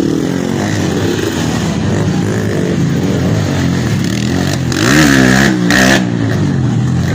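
Dirt bike engines revving, their pitch rising and falling as they work. About five seconds in one bike revs harder and louder for a second or so.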